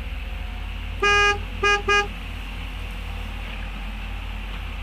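A vehicle horn honks three times: one longer blast, then two short quick toots, over a steady low rumble.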